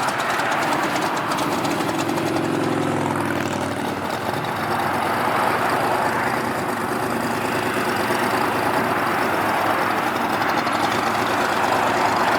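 Car engines idling and rumbling as cars roll slowly past, with a brief pitched engine note about two seconds in.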